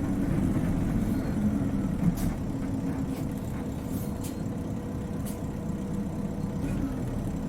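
Isuzu Cubic KC-LV380N city bus running, heard inside the cabin: a steady low engine drone with a faint steady whine over it, and a few light rattles or clicks.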